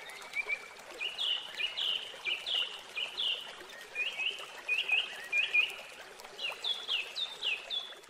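Small birds singing outdoors: a run of short chirps sliding down in pitch, a few a second, over a steady background hiss.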